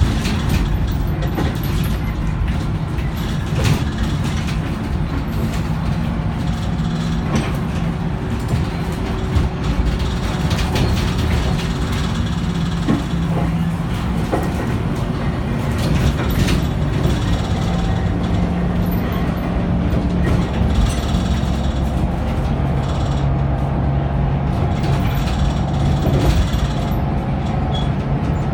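Scania K94UB tri-axle bus in motion: a steady low engine drone whose pitch steps up and down as the bus pulls away, changes gear and slows. Frequent short rattles and knocks from the body run through it.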